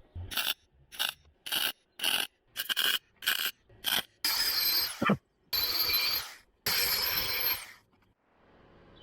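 MIG welder stitch-welding a thin steel repair patch: a series of short crackling bursts, then three longer runs of about a second each, every one starting and stopping sharply.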